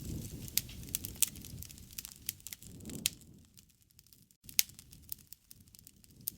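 Wood fire burning: a low rush of flame that swells and fades, with irregular sharp crackles and pops of burning wood, the loudest pop a little past halfway.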